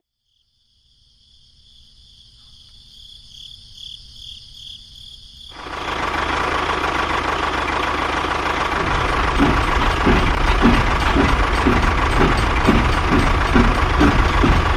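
An engine running steadily, starting suddenly about five seconds in after a low rumble that slowly builds. Later it takes on a regular knocking beat of about three knocks a second.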